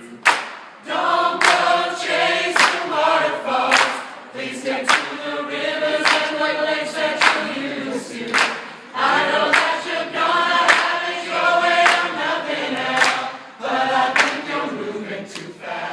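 A cappella vocal group singing in close harmony, with a sharp percussive hit on the beat about once a second.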